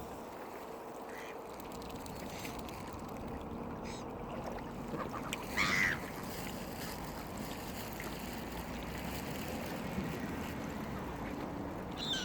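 A waterbird calls once, briefly, about halfway through, over steady outdoor wind noise. A short call comes again near the end.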